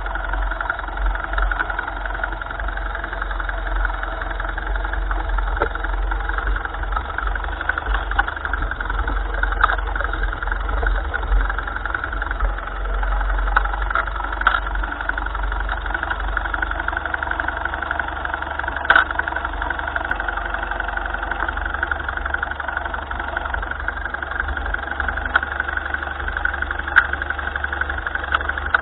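1955 Ferguson tractor engine running steadily, heard from close up on the machine, with a few sharp clicks or knocks along the way.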